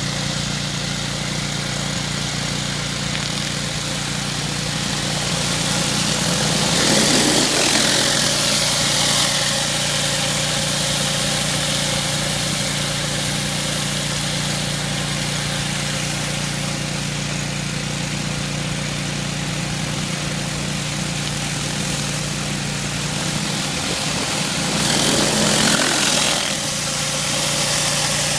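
Engine-driven pressure washer running steadily under the hiss of its high-pressure spray on a driveway. The spray grows louder twice, about a quarter of the way in and again near the end.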